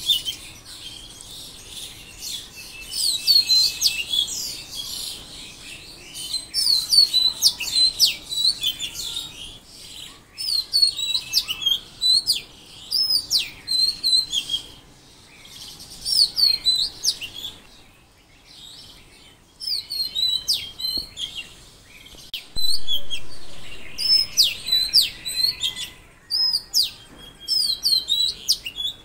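Birds chirping in quick, high, repeated phrases that come in bursts with short pauses between them.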